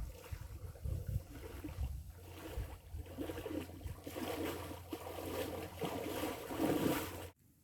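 Water splashing and lapping around a canoe, with wind rumbling on the microphone; the sound grows stronger toward the end and then cuts off suddenly.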